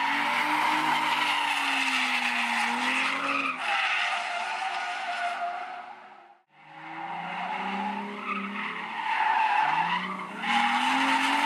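Nissan 350Z (Z33 Fairlady Z) V6 engine revving up and down in second gear while its rear tyres squeal in a drift. The sound dies away about halfway through and then builds back into another slide.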